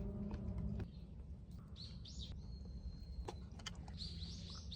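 Faint wild birds calling: a couple of quick high chirps about two seconds in, a thin held whistle just after, then a rapid run of chirps near the end. A few sharp clicks and a steady low rumble lie under them.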